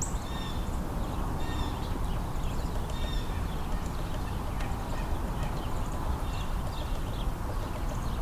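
A flock of house sparrows chirping, with short repeated chirps scattered all through, over a steady low background rumble.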